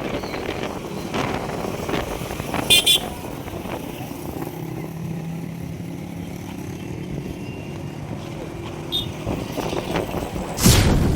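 A motor vehicle's engine running steadily over a noisy outdoor background, with a short horn-like toot about three seconds in and a loud sudden burst of noise near the end.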